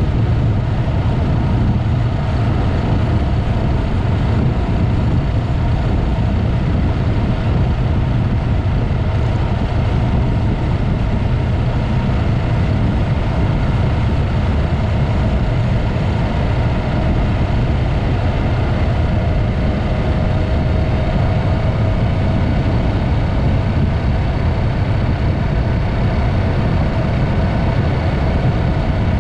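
Yamaha MT-03's parallel-twin engine running steadily through a Mivv aftermarket exhaust while riding, with a faint tone that rises slightly near the end.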